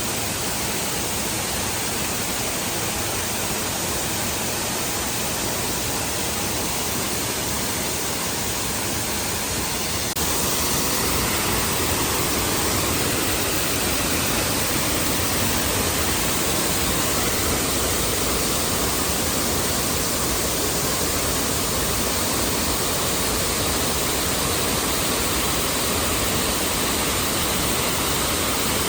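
Waterfall rushing steadily, an even wash of falling water; it gets a little louder about ten seconds in.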